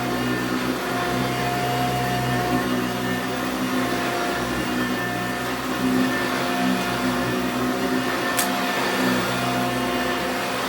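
A 1987 Eureka self-propelled upright vacuum cleaner running steadily, its motor hum carrying a few steady tones that fade in and out as it is worked. A brief sharp tick about eight seconds in.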